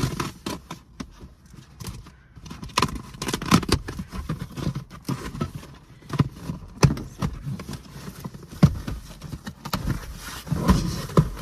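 Handling noise as a box is opened and unpacked: irregular knocks, taps and rustles, spaced unevenly.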